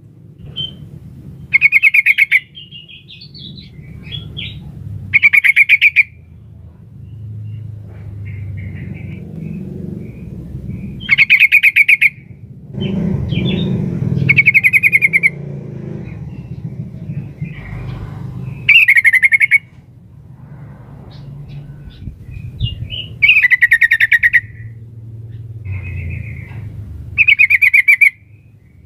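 Yellow-vented bulbul (trucukan), a female's call to a male, giving short, loud, rapid chattering calls about seven times. Fainter calls come between them, over a low rumbling background.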